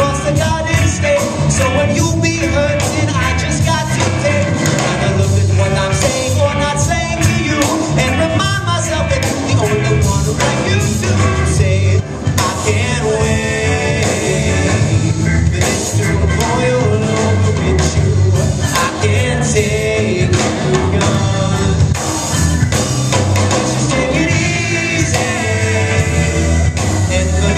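Live rock band playing a song at full volume, with a steady pulsing low end. There is a brief drop in loudness about twelve seconds in.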